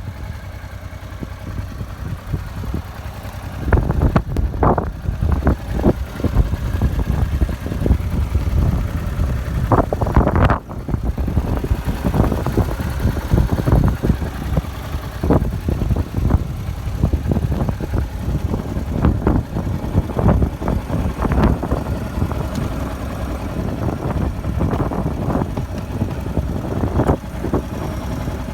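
Honda Deauville 700's V-twin engine running at idle, growing louder about four seconds in, with many short irregular thumps over it.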